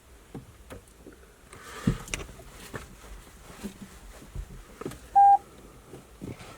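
A single short electronic beep about five seconds in, over faint scattered clicks and handling rustle.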